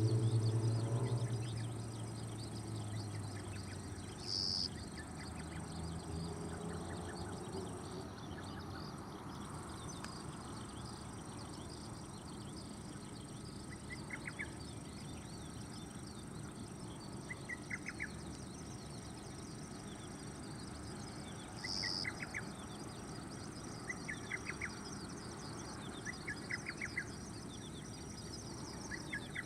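Insects chirping in a fast, dense trill, with a short pulsed chirp every few seconds in the second half and two brief high calls. A low hum fades out in the first few seconds.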